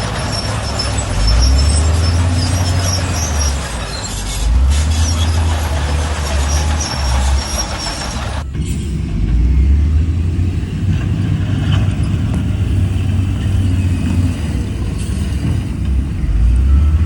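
Heavy diesel construction machinery working, the deep engine note rising and falling as the engines are throttled up and down. About halfway through, the high hiss drops away abruptly, leaving mainly the low engine drone.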